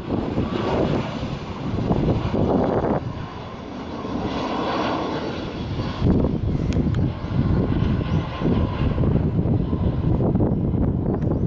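Military aircraft flying low overhead, a loud, steady engine noise that dips a few seconds in and swells again.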